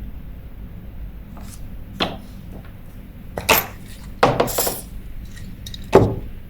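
Small parts of a Daiwa spinning reel's drag being handled and taken apart, making a few short clicks and knocks. A cluster of clinks comes just after the middle, and the loudest knock comes near the end.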